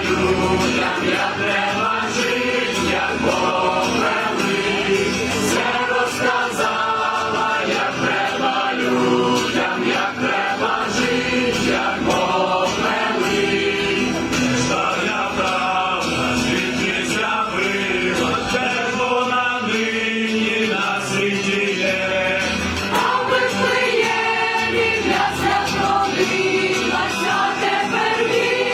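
A choir singing a Ukrainian Christmas carol (koliadka) in several voice parts.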